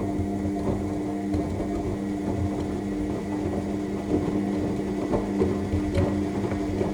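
AEG 7000 Series washing machine turning its drum during the main wash: a steady motor hum with wet laundry and water sloshing and knocking inside the drum.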